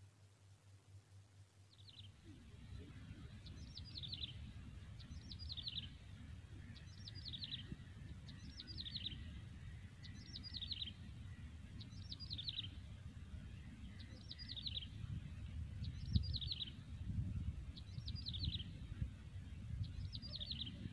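A bird calling over and over, about every 1.7 seconds, each call a quick run of high notes falling in pitch. A low rumble of wind on the microphone runs underneath. Both start about two seconds in, after near silence.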